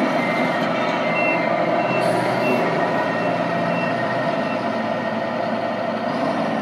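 Reversing beeps from 1/14-scale radio-controlled trucks' sound units: short high beeps repeating about twice a second, two slightly different pitches overlapping, over a steady engine-like hum; the beeps stop about four seconds in.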